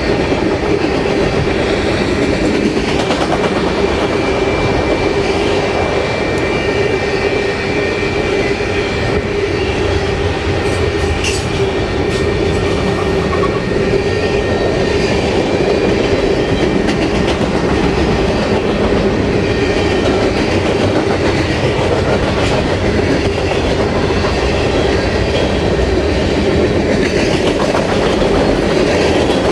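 Freight cars rolling by on the rails: autoracks, then tank cars. Steel wheels rumble and click over the rail joints, with a steady tone running underneath.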